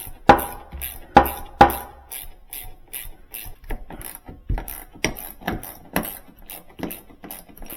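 Metal hardware being handled: a few loud clanks in the first two seconds, then a run of lighter, evenly spaced clicks and taps from the refrigerator door-hinge bracket and tools.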